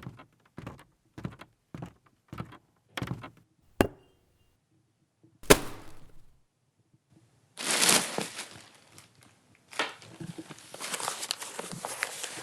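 A run of about six footsteps, then a sharp click and one loud thunk. From about eight seconds in, a dense rustling hiss with scattered clicks.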